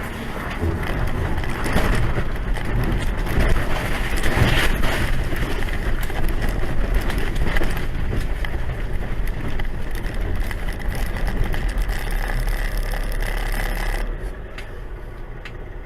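Steady vehicle noise, engine and road rumble as recorded from inside a moving car, falling off in level about fourteen seconds in.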